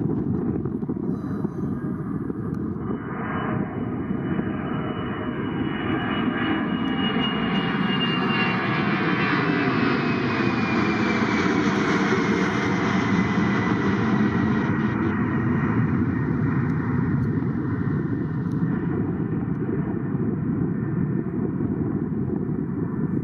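Ilyushin IL-76MF's four Aviadvigatel PS-90A-76 turbofans passing overhead on departure: a deep rumble with a high whine that swells, peaks in the middle and slides down in pitch as the aircraft goes by, then fades.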